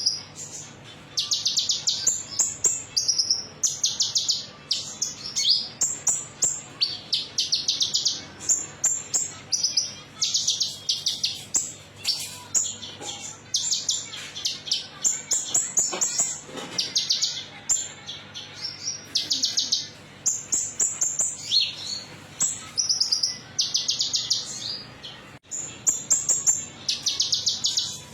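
Kolibri ninja sunbird singing: a continuous run of high, fast, buzzy trill phrases, each about half a second to a second long, repeated with hardly a break. It is played as a lure recording to prompt captive birds to sing.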